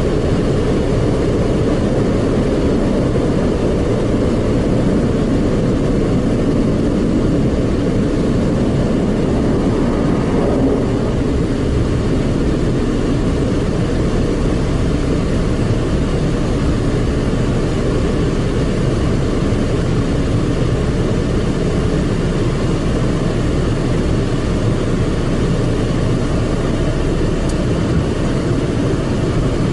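Automatic tunnel car wash machinery heard from inside the car: a steady, loud rumbling noise with no breaks.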